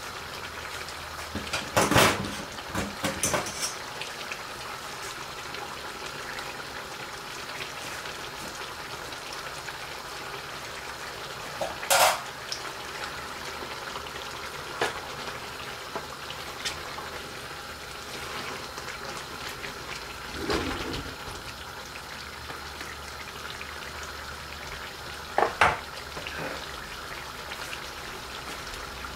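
Duck karahi sizzling steadily in a black iron karahi on a gas burner, with a wooden spoon stirring and knocking against the pan a handful of times: twice near the start, then around the middle and twice more later.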